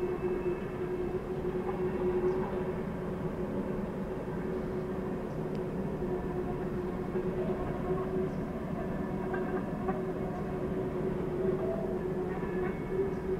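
An empty Union Pacific coal train's cars rolling steadily around a curve of mountain track: a continuous rumble with a steady low hum under it.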